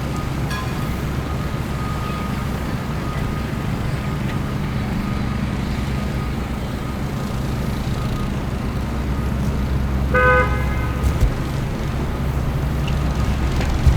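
City street traffic: a steady low rumble of vehicle engines, with a car horn honking once for about a second near ten seconds in.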